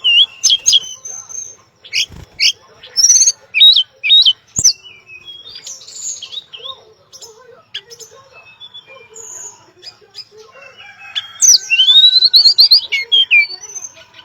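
Tledekan songbird singing a rapid run of short, high chirps and whistles, the notes sweeping quickly up and down, with a denser burst of rising notes near the end.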